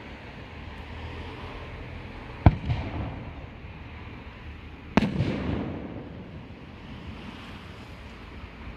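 Two aerial fireworks shells bursting about two and a half seconds apart, each sharp bang followed by a rolling rumble.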